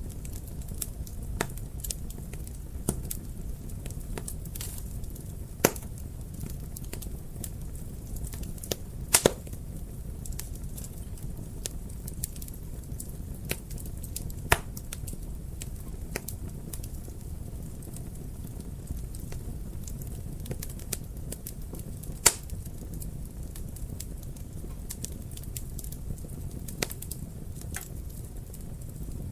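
Wood fire burning in a fireplace: a steady low rumble of flames with irregular sharp crackles and pops, the loudest a few seconds apart.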